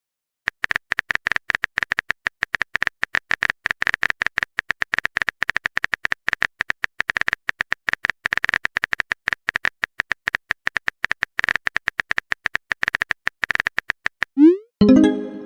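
A fast, even stream of identical keyboard-typing clicks, of the kind laid over chat-message videos as a typing effect. Near the end, a short rising pitched chime sounds once, like a message notification.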